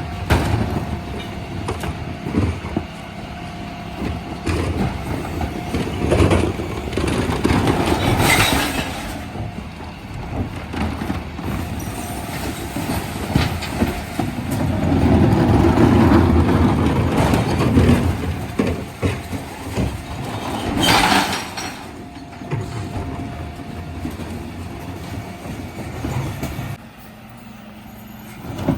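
Dennis Elite 6 refuse lorry working a recycling collection: the engine runs under a steady whine while bins of plastics, cans and glass are tipped, their contents clattering into the body. Two sharp crashing bursts stand out, about eight seconds in and again about twenty-one seconds in.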